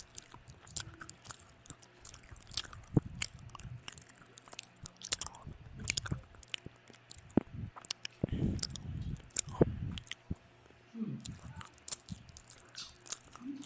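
Close-miked chewing and biting of food, irregular sharp clicks and crunches mixed with mouth sounds.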